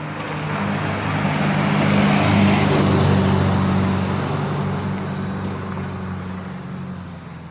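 A heavy road vehicle passing close by: engine drone and tyre rush swell to a peak about two and a half seconds in, then fade away.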